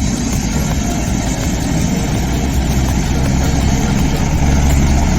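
Helicopter turbine and rotor running with a steady low drone, growing slightly louder toward the end.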